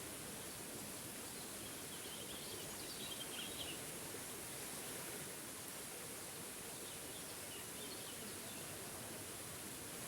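Waterfall running with a steady rush of water, with birds chirping short twittering phrases about two seconds in and more faintly around seven seconds in.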